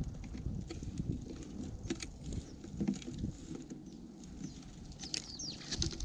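Small birds feeding at a seed feeder close to the microphone, with irregular pecking clicks and taps on seed and feeder. A few quick high chirps come about five seconds in, over a low rumble.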